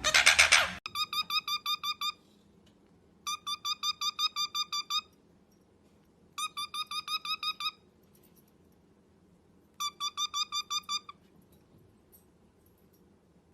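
Rapid beeping, about eight beeps a second at one steady pitch, in four bursts of just over a second each with pauses between. It follows a loud noisy sound that cuts off under a second in.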